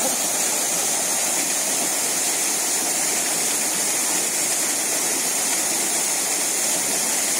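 A small waterfall pouring steadily, a constant hiss of falling water with no breaks or changes.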